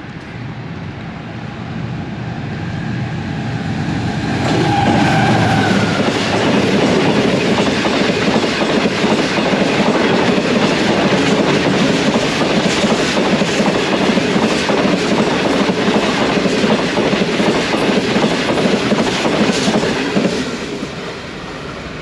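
Express passenger train led by a GEU-40 diesel-electric locomotive passing at about 108 km/h. The rush builds as it approaches and the locomotive goes by about four to six seconds in. Then comes the steady loud rush and clickety-clack of the coaches over the rail joints, which drops off about twenty seconds in.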